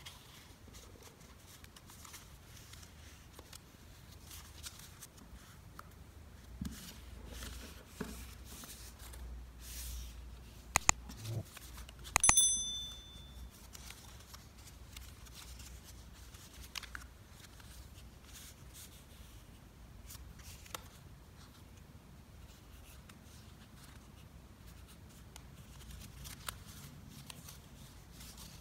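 Paper being folded and creased by hand: scattered soft rustles and crease taps. About eleven and twelve seconds in come two sharp clicks, the second followed by a brief high metallic ring.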